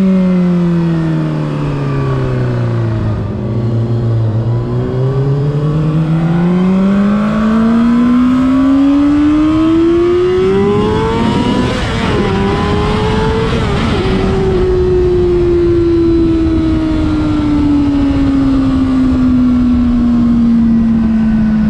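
Honda CBR600RR's inline-four engine on the move. The revs fall for about four seconds, then climb steadily for some seven seconds under acceleration. Around twelve seconds the note wavers with a rush of noise, then it falls slowly away as the bike eases off.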